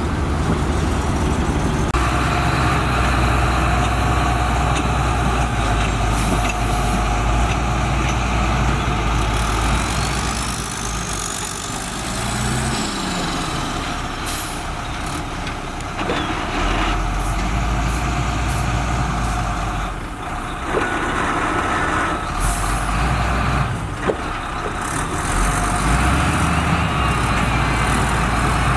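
Heavy diesel engine of road-building machinery running and working, its level rising and falling with load. A few sharp clanks come in the second half.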